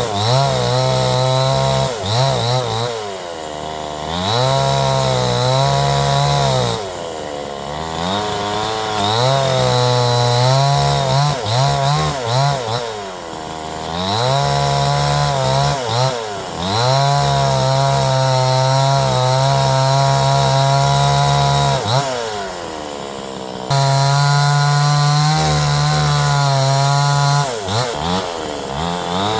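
Two-stroke chainsaw cutting wood, its engine pitch sagging and climbing back every few seconds.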